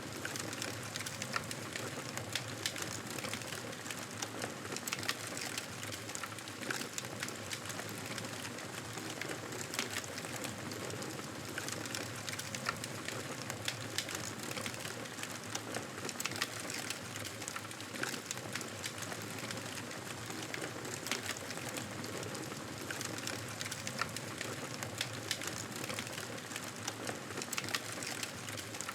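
Wood fire crackling in a fireplace: a steady hiss with frequent small irregular pops.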